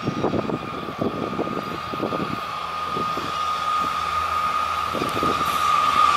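WAP-4 electric locomotive hauling a passenger express as it approaches at speed, growing steadily louder. A steady high-pitched whine runs under it, and a low hum joins about two seconds in.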